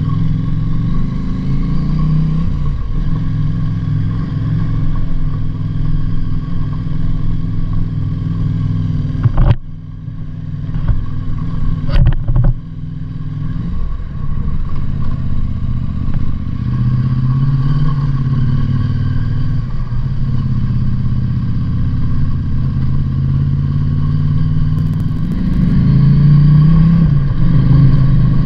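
Motorcycle engine running while riding, its pitch rising and falling with the throttle. About nine and a half seconds in the engine sound drops away briefly, and a couple of sharp knocks follow around twelve seconds.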